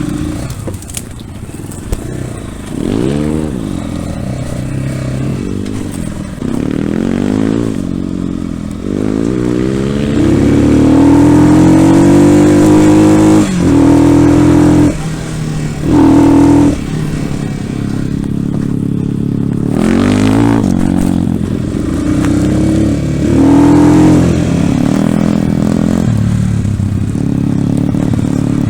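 Dirt bike engine under way, revving up and down with its pitch climbing and falling repeatedly; it runs hardest about ten to thirteen seconds in, with the throttle closing briefly a few times.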